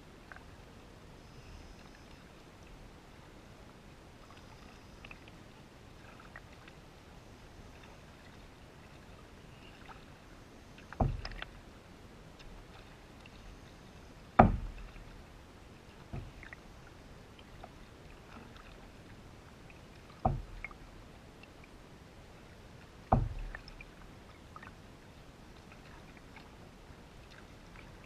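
Canoe on the water: five sharp knocks on the hull, a few seconds apart, each trailing off briefly, over a faint steady background.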